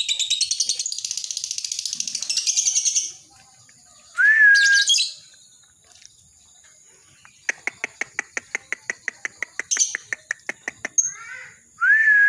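Lovebird chattering in a fast, continuous trill (the 'ngekek' song) for about three seconds, then a short sharp call. A run of rapid clicks follows, about eight a second, and another sharp call comes near the end.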